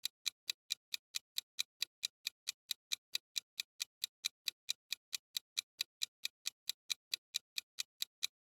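Clock-tick sound effect ticking evenly, about three ticks a second: a quiz countdown timer running while a question waits for an answer.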